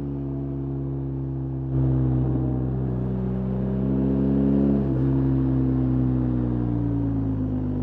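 BMW R 1250 GS Adventure's boxer-twin engine under way. It is off the throttle at first, then gets suddenly louder as the throttle opens, climbing in pitch to a brief break near the middle that sounds like a gear change. It then runs steadily before dropping in pitch as the throttle is rolled off.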